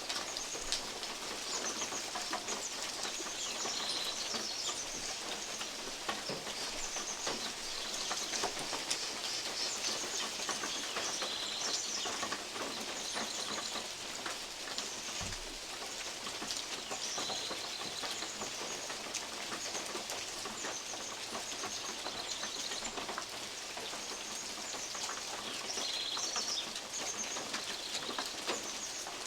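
Steady rain in woodland, with large drops falling from oak leaves and tapping on a metal roof in constant irregular ticks. Birds call in short, high, repeated phrases several times over the rain.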